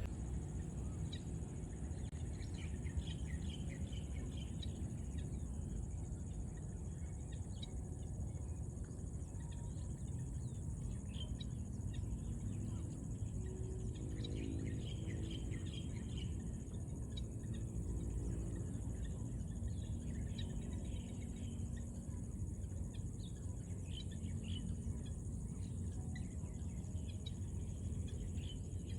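Evening woodland ambience: a steady high insect drone throughout, with scattered short bird chirps and a constant low rumble underneath.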